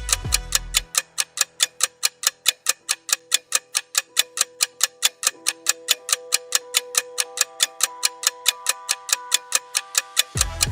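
Background music: a fast, steady ticking, about five ticks a second, over soft held notes. A bass part drops out about a second in and returns near the end.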